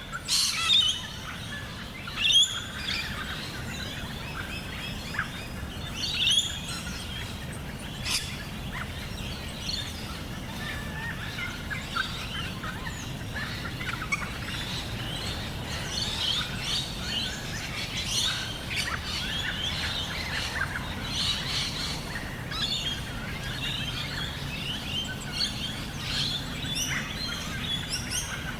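Several birds chirping and trilling in a chorus over a steady low background noise, with a few separate calls in the first several seconds and denser, overlapping chirping from about ten seconds in.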